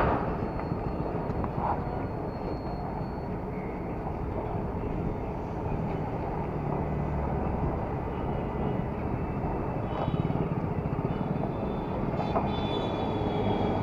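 Yamaha R15 motorcycle's single-cylinder engine running on the move, mixed with steady wind and road noise. A faint high-pitched tone sounds near the end.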